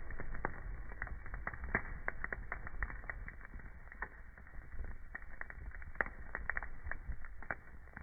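Wood fire in a fireplace crackling: a steady hiss of burning logs with a low rumble underneath and frequent irregular sharp pops and snaps.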